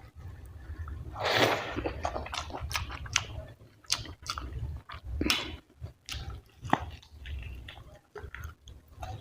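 Close-miked wet chewing and lip-smacking of a person eating fatty mutton curry with rice, in many short smacks and clicks. There is one longer, louder slurp about a second in.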